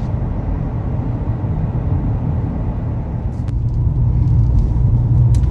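Steady low road and engine rumble of a moving car heard from inside the cabin, growing slightly louder a few seconds in.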